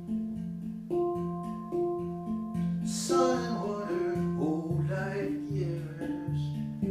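Folk song on a fingerpicked acoustic guitar, its notes picked out in a steady pattern, with a voice singing from about three seconds in.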